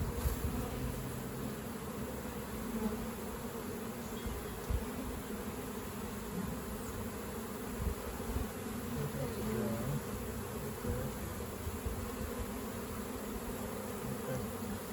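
Many honeybees from a swarm colony buzzing steadily in a dense, continuous hum as the colony is being transferred into a hive.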